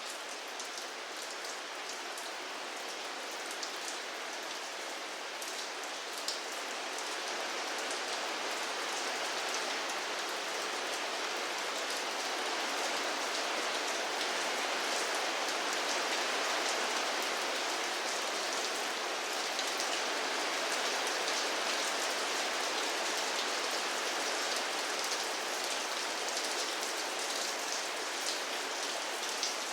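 Steady rainfall hitting a surface, an even hiss with scattered sharper drop ticks, growing a little heavier about a quarter of the way in.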